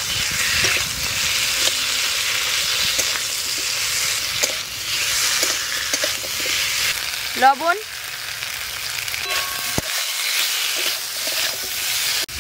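Potato wedges with spice paste sizzling in hot oil in a metal kadai, just after chili paste has gone in, while a spatula stirs and scrapes them against the pan. About seven and a half seconds in, a brief rising voice-like call.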